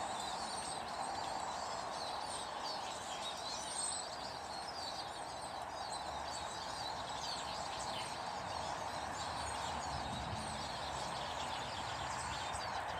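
Small garden birds chirping with many short, quick calls over a steady background hiss.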